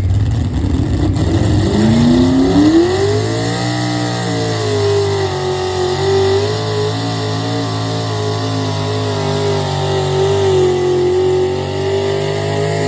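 Engine of a pulling tractor or truck revving up over a couple of seconds, then held at high revs with a slightly wavering pitch, as it runs under load down the pulling track.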